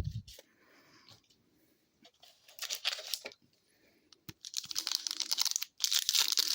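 A hockey card pack wrapper being torn open and crinkled by hand. A short crinkle comes about two seconds in, then steady crackling and tearing from about four seconds on.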